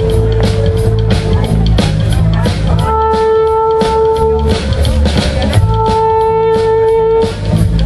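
Live rock band with a saxophone holding long notes, three held notes in turn, over a steady drum beat, bass and guitar.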